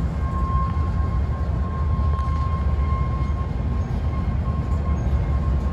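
BNSF grain train of covered hopper cars rolling slowly past: a steady low rumble of wheels on rail, with a thin steady whine above it.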